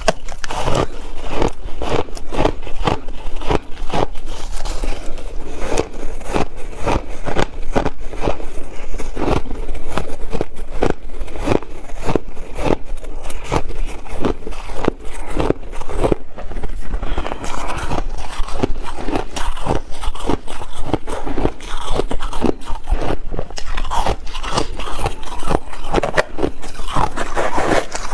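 A person biting and chewing ice: dense, rapid crunching with a scraping quality, several crunches a second without a break.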